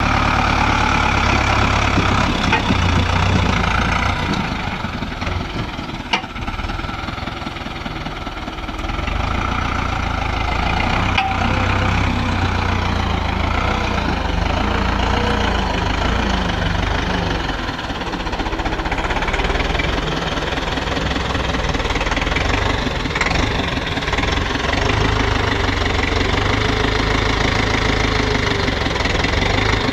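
SAME Centurion 75 tractor's air-cooled diesel engine running, easing off for a few seconds early on and then picking up again, with a sharp knock about six seconds in.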